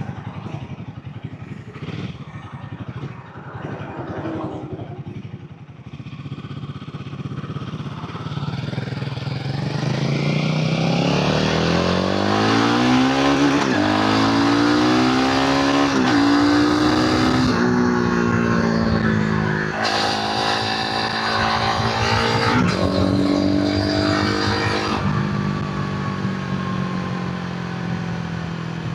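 Royal Enfield Himalayan 450's single-cylinder engine and exhaust at low revs for several seconds, then accelerating hard. It climbs through the gears with the pitch rising and dropping at each shift, and settles into a steady cruise near the end.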